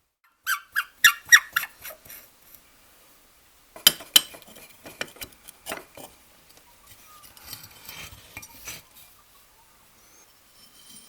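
Metal parts of an old Stanley No.130 block plane clinking and knocking as they are handled and set down: a quick run of sharp clinks in the first two seconds, two louder knocks about four seconds in, then lighter clicks and some rustling.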